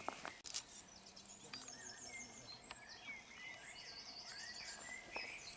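Birds chirping and singing, with short rising and falling calls and quick trills. Two sharp clicks come right at the start.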